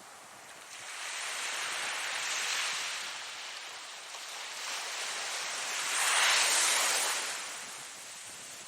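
Ocean waves breaking and washing in: a rushing surge about a second in, then a louder wave peaking about two thirds of the way through and fading back.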